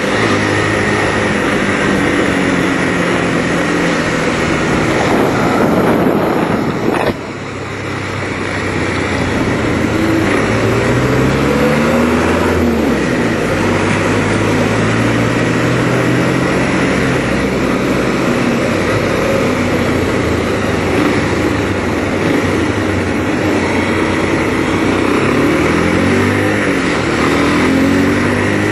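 200cc Kawasaki Rouser (Bajaj Pulsar) motorcycle engine heard from onboard while riding, its pitch climbing and falling several times as the rider accelerates and eases off, over steady wind and road noise. The sound dips briefly about seven seconds in.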